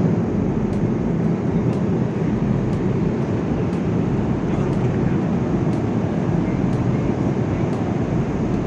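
Steady jet engine and airflow noise inside an airliner cabin, a low, even rumble with no change in pitch.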